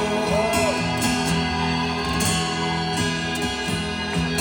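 Live rock band playing an instrumental stretch between vocal lines, guitars over steady sustained chords, heard from the audience.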